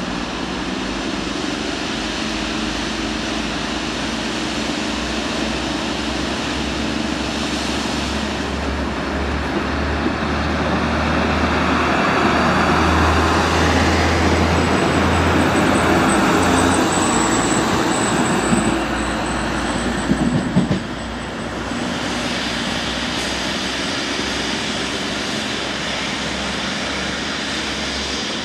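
A train running past the platform: a steady rumble and hum that build to a peak through the middle, with a thin high whine at the loudest part. The sound drops off suddenly about two-thirds of the way through, leaving a lower steady rumble.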